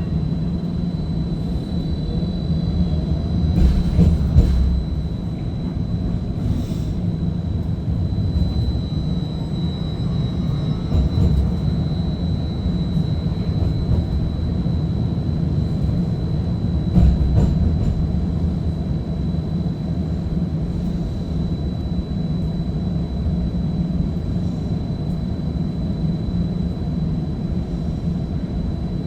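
Streetcar running along its track, heard from inside the car: a steady low rumble with a thin high whine over it. Three louder thumps come at intervals, about 4, 11 and 17 seconds in.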